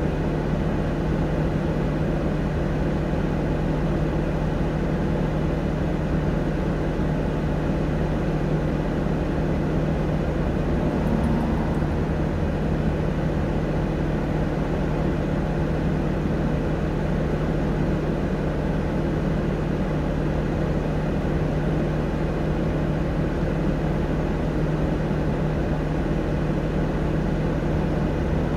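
Steady hum of an idling vehicle engine, heard from inside the cabin, with one low, unchanging pitch and no revving.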